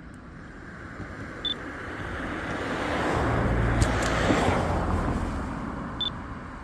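A road vehicle driving past: its tyre and engine noise swells over about three seconds, is loudest with a low rumble around four seconds in, then fades away. Two short high chirps come about a second and a half in and again near the end.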